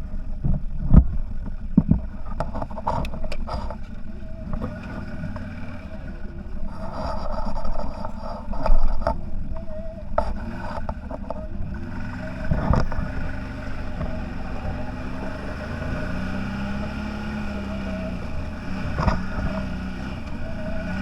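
CFMoto 1000 off-road vehicle engine running steadily while riding over rough ground, with scattered knocks and rattles. The engine pitch rises and falls once near the end.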